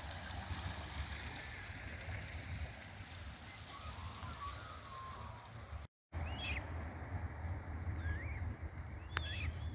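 A few short bird calls over a steady low rumble. The sound cuts out completely for a moment about six seconds in, and there is a sharp click near the end.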